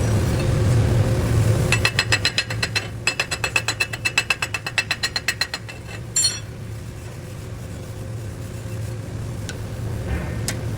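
Chipping hammer knocking slag off a stick weld on a steel test plate: rapid metal-on-metal strikes, about five or six a second, for a few seconds, then one sharper clang. A steady low hum of a running machine sits underneath.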